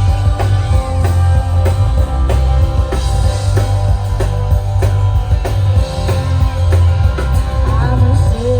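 A live band plays the instrumental opening of a country song: a drum kit keeps a steady beat under bass and guitar.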